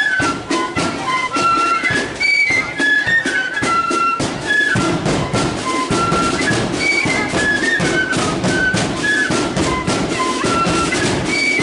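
Marching flute band playing a tune: a bright melody of quick stepping notes on the flutes over a steady drumbeat.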